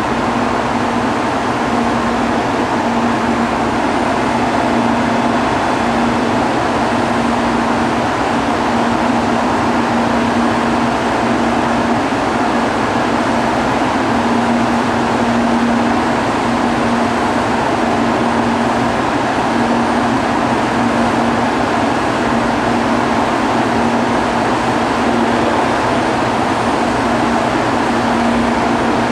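Steady running noise and electrical hum of trains in a railway station, with a low droning tone that comes and goes.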